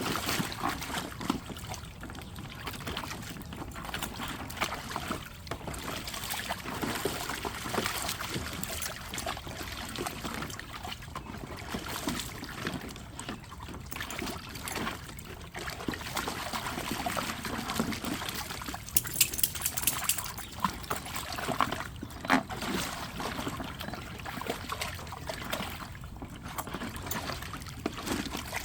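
Water sloshing and trickling in a dog's paddling pool as a puppy plays in it, with small irregular splashes.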